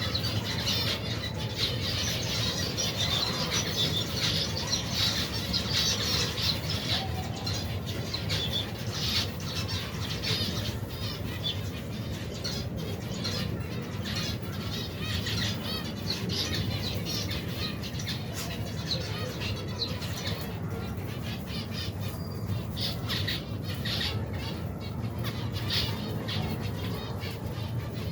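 A large flock of aviary finches chirping and calling continuously, with wings fluttering, over a steady low hum.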